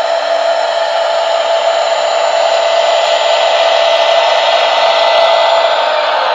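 A TGV train running: a steady rushing whir with one held tone through it, swelling a little toward the end and then easing off.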